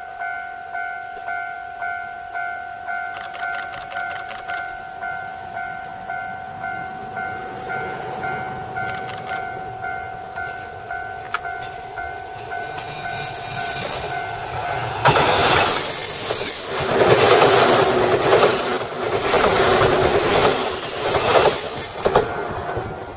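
Japanese level-crossing warning bell ringing in a steady, even pulse. About twelve seconds in, a train comes up and runs loudly past with its wheels clacking over the rail joints, while the bell keeps ringing.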